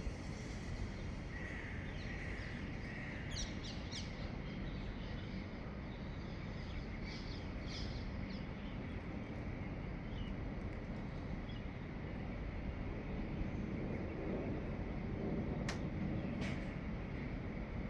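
Dawn outdoor ambience: scattered short, high bird chirps over a steady low rumble that sounds like wind or distant traffic, with two sharp clicks near the end.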